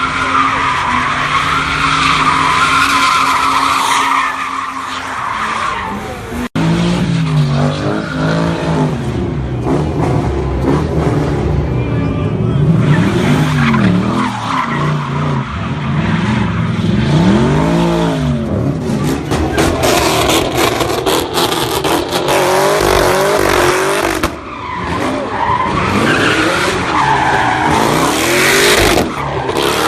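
A car doing sideshow donuts: its engine revving up and down over and over while the tyres screech and skid, with shouting voices mixed in. There is an abrupt break about six seconds in.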